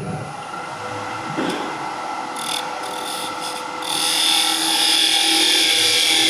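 Skew chisel cutting a small spindle turning on a wood lathe: a steady hiss of the cut over the lathe's running tones, getting much louder about four seconds in as the tool bites deeper.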